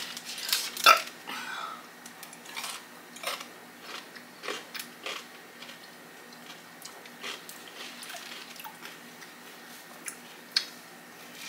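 Close-miked eating sounds: crunching and chewing a dill pickle, loudest about a second in, then a bite into a soft sub sandwich near the end.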